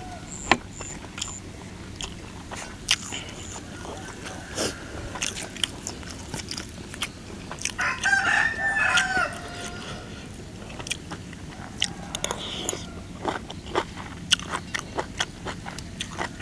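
Close-up eating: many sharp chewing and crunching clicks throughout. About eight seconds in, a rooster crows once, the loudest sound, lasting about a second and a half.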